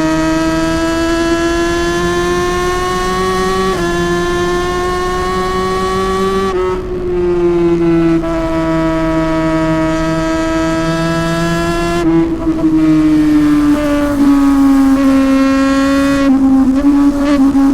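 Motorcycle engine running under way with a steady high note. The pitch climbs slowly, drops suddenly a few times, and eases down near the end.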